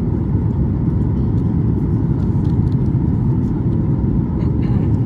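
Steady low rumble inside the cabin of a Boeing 737 MAX 9 airliner, its CFM LEAP-1B engines running, with faint steady tones above the rumble.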